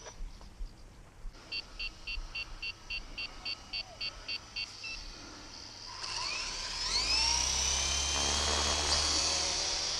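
A run of about a dozen short electronic beeps, about four a second, then the electric motor of a WL Toys V912 RC helicopter spooling up: a whine that rises quickly in pitch and settles into a steady high-pitched running.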